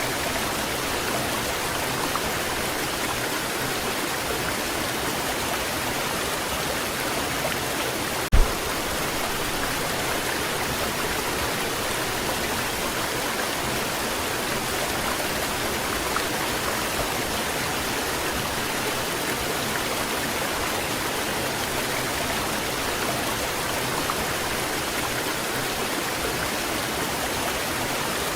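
Waterfall pouring in a steady, unbroken rush of water. A single brief low thump about eight seconds in stands out above it.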